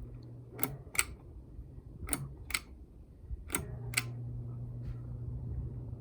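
Ceiling fan's pull-chain switch pulled three times, each pull a pair of sharp clicks, as the fan's speed setting is changed. The motor's low hum breaks off after the first pull and comes back steady after the last.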